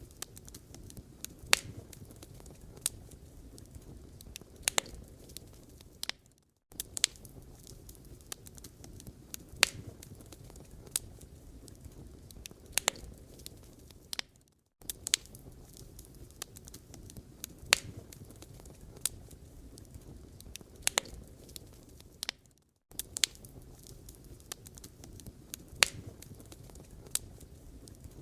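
Wood fire burning in a fireplace: a steady low rumble with irregular sharp crackles and pops. The sound cuts out briefly three times, about every eight seconds.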